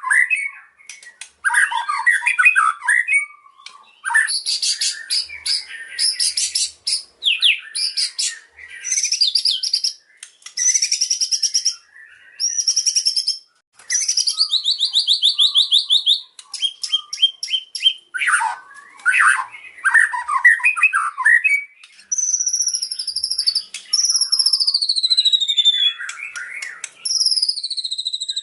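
White-rumped shama singing a long, varied song of rapid trills and chattering phrases, mixing in phrases mimicked from other birds. In the last several seconds it gives clear whistles that glide downward.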